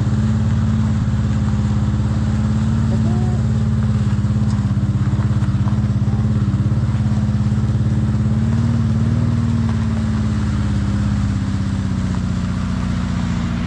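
Jeep engine running steadily while the vehicle is driven, a loud, deep drone whose pitch wavers slightly and eases a little about ten seconds in.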